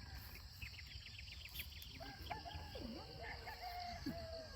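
Faint, distant rooster crowing from about two seconds in, wavering and gliding in pitch, after a quick run of small bird chirps. A steady high chorus of insects runs underneath.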